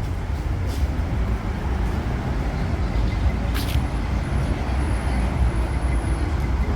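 Street traffic noise: a steady low rumble of road vehicles, with one short sharp click about three and a half seconds in.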